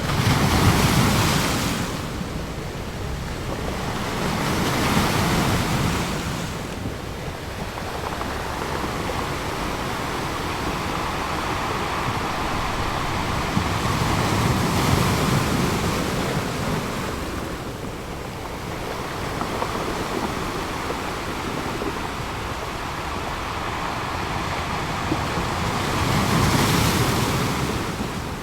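Ocean surf: a steady wash of waves with several larger waves breaking and swelling louder, at the start, around five seconds in, in the middle and near the end.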